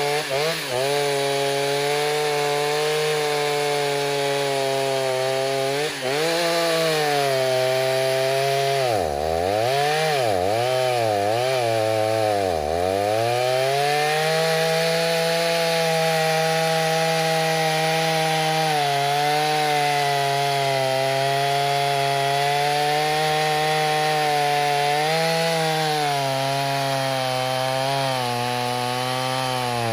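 Stihl 029 two-stroke chainsaw with a 45 mm cylinder running at high speed, cutting wood. Its engine note holds mostly steady but drags down and recovers several times, most deeply around ten to thirteen seconds in, as the chain bogs in the cut.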